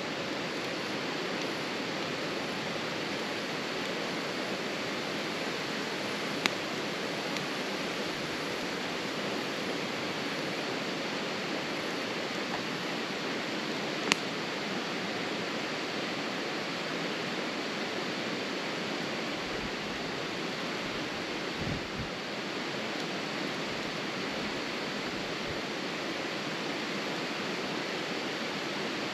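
Wood fire burning with a steady rushing hiss and two sharp crackling pops, about six and fourteen seconds in. A soft low bump comes about twenty-two seconds in.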